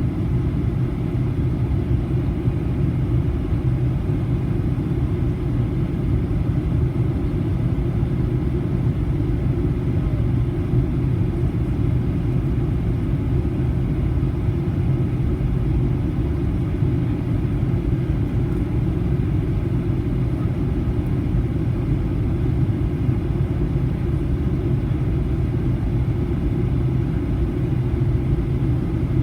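Steady low cabin rumble of a Boeing 737-800 in flight: engine and airflow noise heard from inside the passenger cabin, with a faint steady hum under it.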